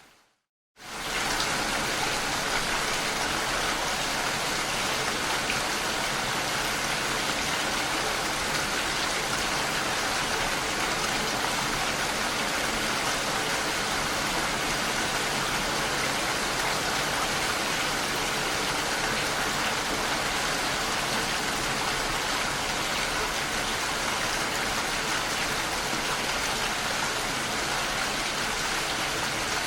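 Steady heavy rain, an even rushing hiss with no single drops or thunder standing out. It starts abruptly after a moment of silence at the very beginning.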